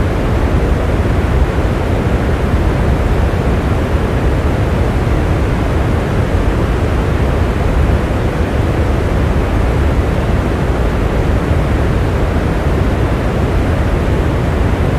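Steady rain, a dense, even rushing noise that is heavy in the low end with little treble.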